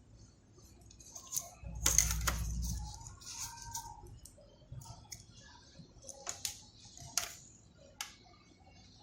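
Scattered light clicks, taps and scrapes of small hand tools working on a circuit board, with a brief low rumble about two seconds in.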